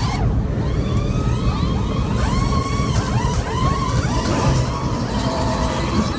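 Car engine revved over and over, its pitch rising and falling in quick overlapping arcs over a heavy, rough low rumble.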